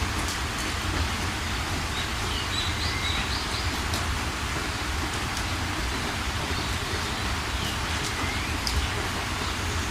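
Steady rain falling, with scattered drop ticks. Small birds chirp in two short bouts over it, a few seconds in and again near the end.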